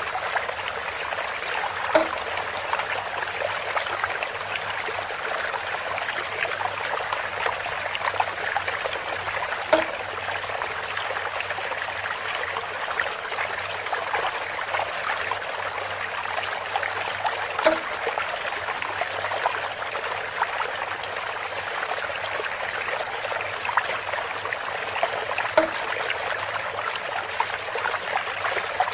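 Water trickling steadily through bamboo, with a short hollow knock repeating about every eight seconds, four times.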